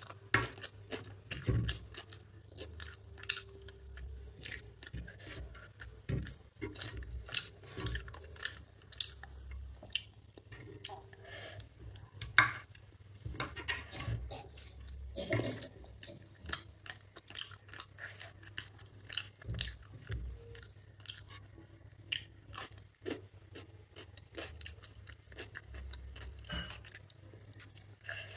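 Close-up chewing of chicken picked off the bone by hand, with frequent small clicks and taps of fingers and bone against a plate. The sharpest click comes about twelve seconds in.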